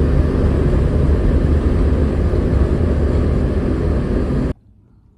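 A loud, steady rumble with a hiss over it, cutting off abruptly about four and a half seconds in.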